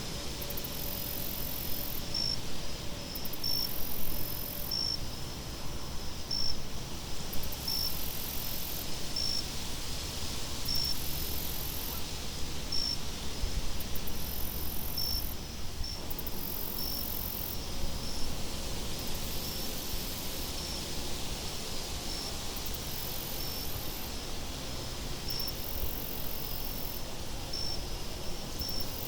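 Night insects chirping, with a short high chirp about once a second and higher trills coming in pulses of a second or so, over a steady low rumble of wind.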